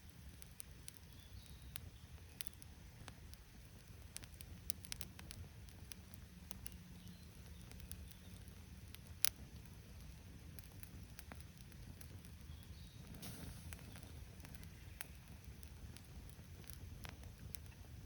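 Wood campfire crackling softly, with scattered small pops and one sharper crack about nine seconds in.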